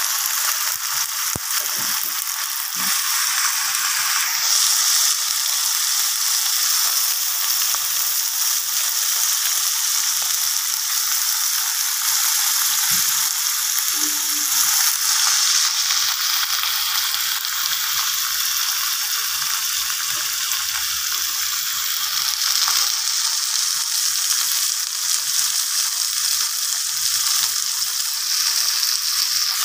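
Fresh spinach leaves with dried red chillies, garlic and shallots frying in hot oil in a wok: a steady, loud sizzling hiss as the wet leaves wilt.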